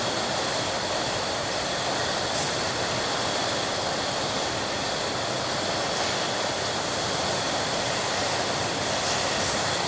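Milk bottling plant machinery running steadily: a dense even noise with two steady high whines and a few faint clinks.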